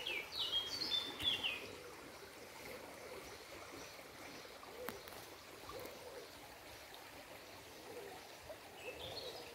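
A songbird singing short runs of quick, high chirping notes in the first second and a half and again near the end, over a faint steady outdoor background hiss.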